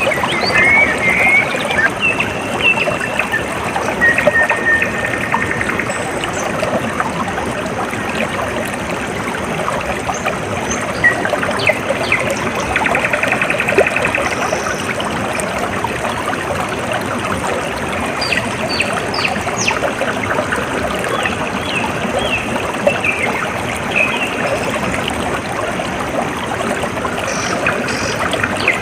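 Small stream of water trickling and babbling steadily, with small birds chirping and giving short rapid trills on and off throughout.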